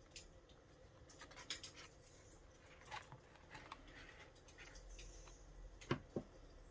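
Quiet notebook-crafting work sounds: paper and stationery being handled, with scattered light clicks and rustles and two soft knocks about six seconds in.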